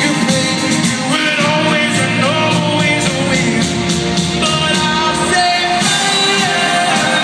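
Live pop song performance: a male singer's voice over full band accompaniment through an arena PA.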